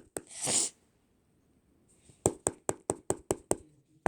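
A quick run of about seven sharp knocks, roughly five a second, starting about two seconds in, after a short breathy hiss near the start. These are knocks to get a listener's attention.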